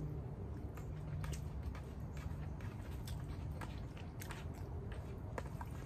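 A person chewing a mouthful of fried rice with vegetables, with scattered small, sharp mouth clicks, over a faint low steady hum.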